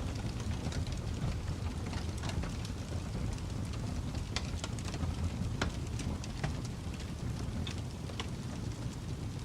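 Wood fire burning in a fireplace: a steady low rumble of flames with irregular crackles and pops scattered throughout, a few sharper than the rest.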